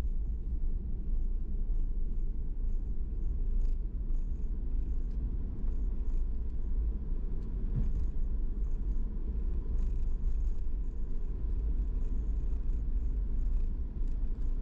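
Steady low rumble of a vehicle running, with faint scattered ticks above it.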